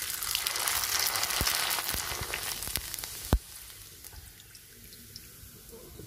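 Rice papad frying in hot oil in a kadhai: a loud sizzling hiss for about the first three seconds, broken by one sharp click, after which the sizzle drops to a soft, low hiss as the puffed papad is lifted out of the oil.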